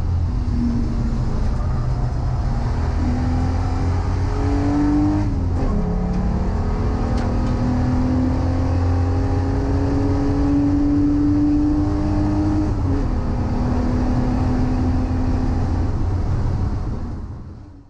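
Volkswagen Corrado's VR6 engine pulling hard on track, its revs climbing in long steady rises. The revs drop sharply about five and a half seconds in and again about thirteen seconds in before climbing again. The sound fades out near the end.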